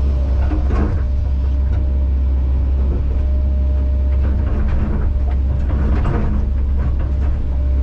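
Kobelco SK210 excavator's diesel engine running steadily under load, with scattered knocks and clatter of shot rock being moved and set by the bucket.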